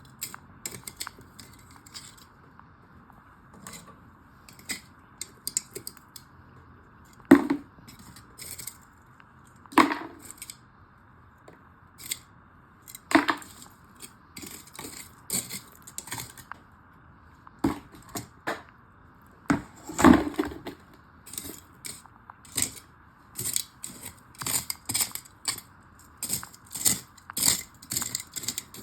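Wood on a campfire crackling and popping in irregular small clicks, with a few louder sharp cracks of wood now and then.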